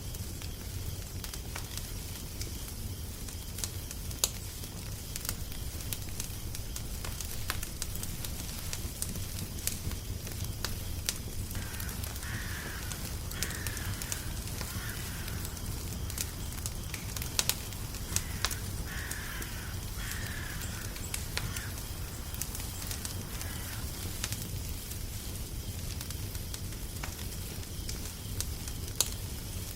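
Wood fire crackling steadily, with a low rumble and frequent sharp pops. Twice, about twelve and nineteen seconds in, a bird gives a run of about three short harsh calls.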